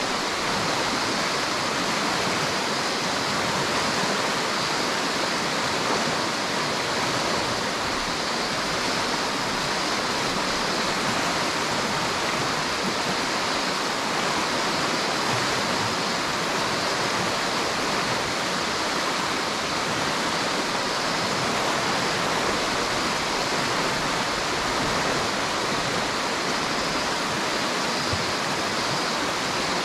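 River water rushing and splashing over rocks, a steady unbroken rush.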